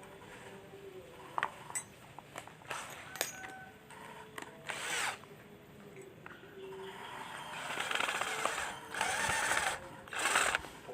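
Hand work with tools on a small object: scattered clicks and taps, then a few short scraping or rasping bursts, the loudest near the end.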